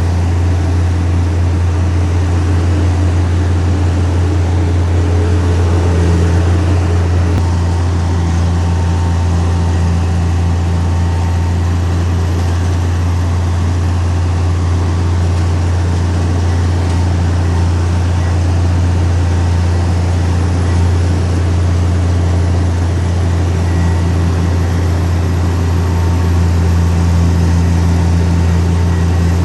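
Heavy earthmoving machine's diesel engine running steadily with a loud, even low drone.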